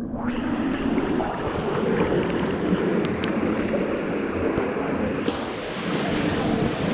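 Steady rushing of falling water at a waterfall, a dense even roar with no distinct events.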